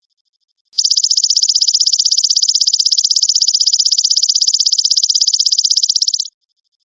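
Belalang emas (Indonesian 'golden grasshopper' insect) calling: a loud, shrill, rapidly pulsed buzzing trill. It starts about a second in, runs steadily for about five and a half seconds, and cuts off sharply near the end.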